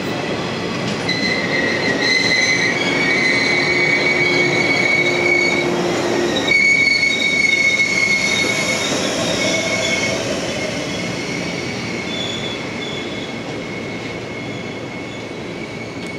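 JR West Okayama depot electric train set B10 rolling past, its wheels squealing high and steady on the rails over the rumble of the running gear. It is loudest about halfway through, then fades as the last car goes by.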